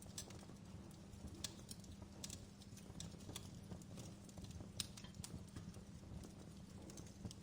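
Wood fire crackling in a fireplace: irregular sharp pops and snaps over a low, steady rumble of the flames, one pop louder than the rest about halfway through.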